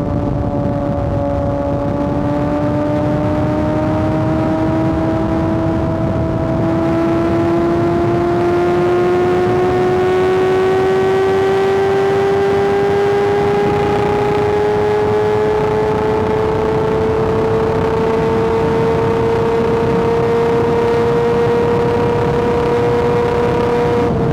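Kawasaki ZX-6R inline-four engine held at high revs under sustained throttle, its pitch climbing slowly and steadily with no gear change, then easing back slightly at the very end, over a rush of wind noise.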